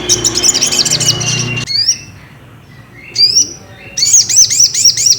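Sogon (sogok ontong) sunbird calling: a dense run of rapid high chirps that cuts off suddenly a little under two seconds in, then a few short rising notes, and near the end a quick string of about six arching chirps.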